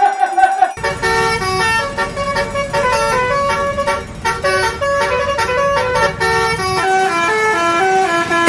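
Multi-tone telolet bus horn playing a tune: after a falling tone, a quick run of short stepped notes starts about a second in and keeps going.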